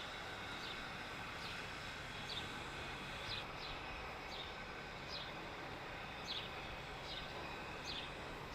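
A small bird chirping over quiet outdoor background noise, one short high chirp about every second.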